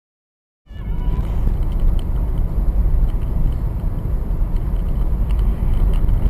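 Silence, then a clip cuts in a little under a second in: a steady low rumble of a car on the move, its road and engine noise, with a few faint ticks over it.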